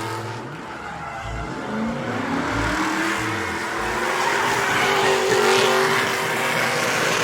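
Vehicle engine revving with tyres squealing, as in a burnout or hard launch; the pitch climbs about two seconds in and the sound holds louder through the second half.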